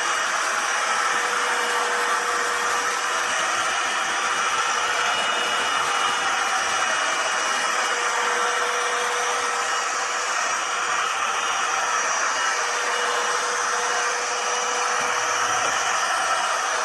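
Eureka NES215A Blaze stick vacuum running steadily: the whine of its motor over the rush of suction air.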